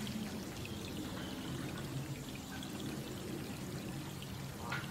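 Steady rain with a constant low rush of pouring, running water beneath it and scattered drips. There is one sharper drip just before the end.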